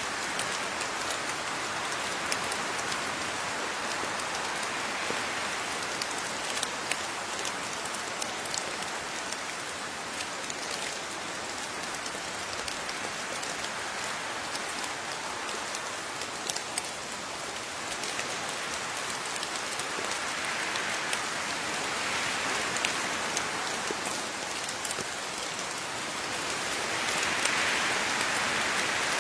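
Steady rain falling, with many individual drops ticking sharply on a surface over the even hiss; it swells slightly louder near the end.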